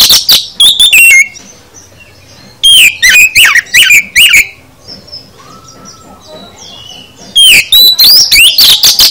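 Oriental magpie-robin (kacer) singing: three loud bursts of rapid, sweeping whistled notes, the first at the start, the second about two and a half seconds in and the third near the end, with quieter pauses between them holding faint softer calls.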